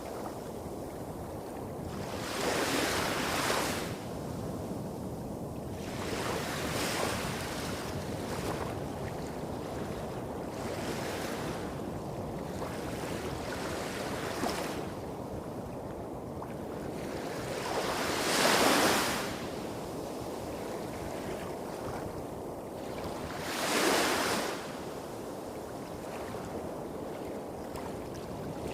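Small sea waves breaking and washing up a shore, each a brief rising and falling hiss, about six in turn with the loudest around two-thirds of the way through. Under them runs a steady low rumble of waves hitting rocks a few hundred metres off.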